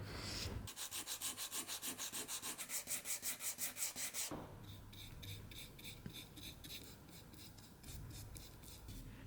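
Hand sanding of a wooden spinning-wheel part with abrasive paper: quick back-and-forth rubbing strokes, about six a second. About four seconds in, the strokes change abruptly to a quieter, differently pitched rubbing that goes on at a slightly slower pace.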